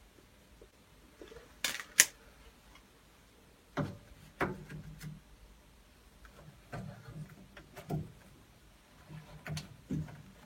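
Hand-fitting a greased replacement diverter valve into a combi boiler's hydraulic block. Two sharp clicks about two seconds in, then irregular knocks and taps of metal and plastic parts and tools.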